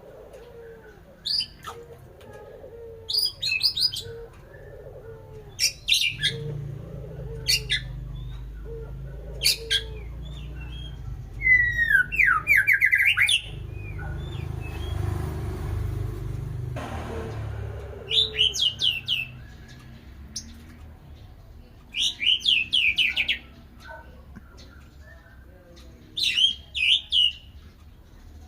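White-rumped shama singing: short, loud phrases of rapid high notes every few seconds, with a longer phrase that falls in pitch about twelve seconds in. Underneath, a soft low call repeats about once a second during the first ten seconds.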